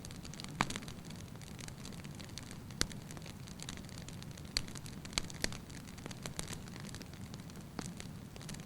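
Wood fire burning in a fireplace: a steady low rustle of flames with scattered sharp crackles and pops, the loudest about half a second in and just before three seconds.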